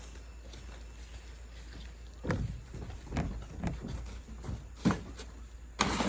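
Several irregular knocks and thumps, the loudest near the end, over a steady low hum.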